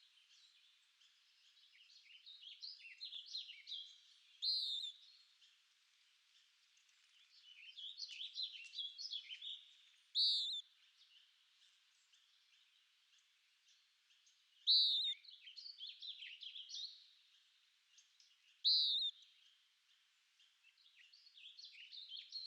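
A songbird singing in repeated phrases of quick, varied chirps and warbles, with pauses of a few seconds between them. Four loud, clear notes stand out among the phrases.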